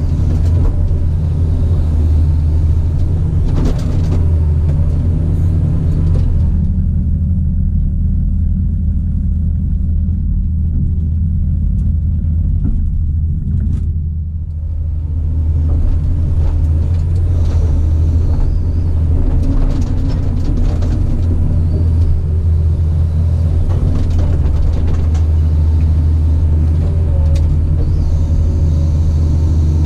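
Caterpillar 973C track loader's diesel engine running steadily under work, with scattered knocks and scrapes over it. The higher clatter drops away for several seconds in the middle while the engine hum carries on, then comes back.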